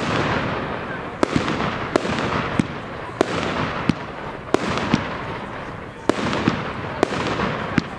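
Firework display of aerial shells bursting: a steady run of sharp bangs, about one or two a second, over a continuous rushing noise between them.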